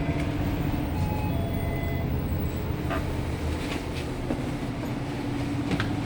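Daewoo NEW BS106 NGV city bus's Doosan GL11P natural-gas engine running, a steady low drone heard from inside the cabin, with a few faint short high tones over it.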